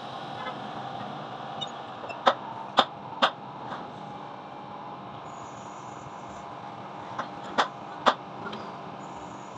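Sharp knocks in two groups: four about half a second apart, then three more a few seconds later, over a steady background hum.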